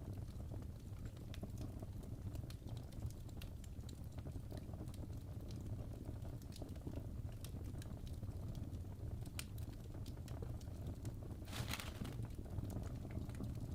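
Fireplace crackling: irregular sharp pops and snaps over a low steady rumble, with a brief rush of hiss about twelve seconds in.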